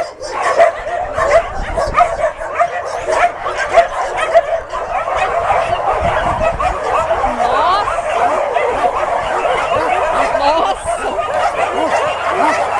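A large pack of dogs barking and yelping at once, a dense, unbroken chorus of many overlapping barks.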